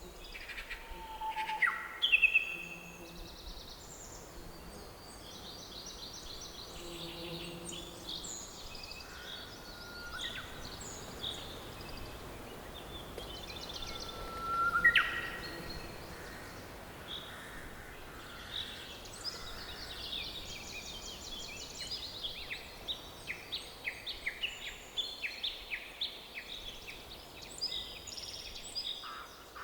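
Forest birds singing and calling over a faint steady background hiss: a mix of chirps, whistles and rapid chirp series from several birds. There are louder whistles about two seconds in and midway, and a busy run of quick chirps near the end.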